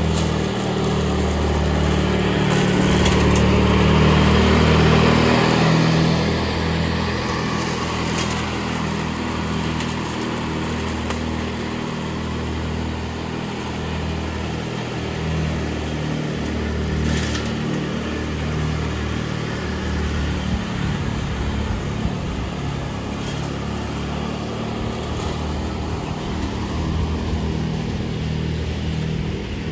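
Ride-on lawn mower engine running steadily while mowing, louder for a few seconds near the start.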